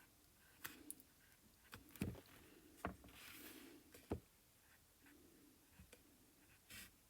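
Near silence with faint, scattered taps and a soft brushing of a paintbrush working acrylic paint, dabbing and mixing.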